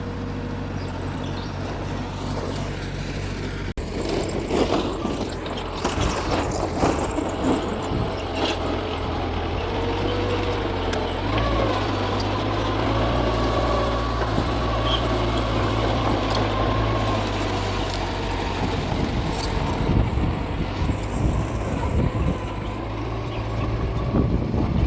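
Heavy diesel bulldozer engine running steadily, with scattered metallic clanks and a wavering squeal a little under halfway through, while the engine note grows louder.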